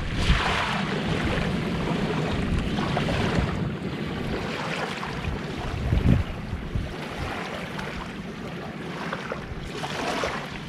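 Calm sea surf washing on the shore, with wind buffeting the microphone in gusts, strongest at the start and again about six seconds in.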